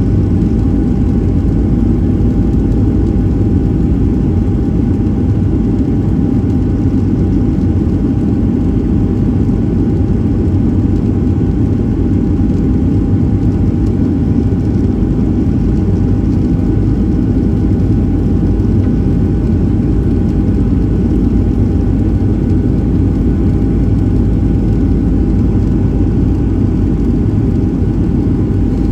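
Boeing 737-700 cabin noise in flight: a steady, loud low rumble of engines and airflow with a constant whine on top.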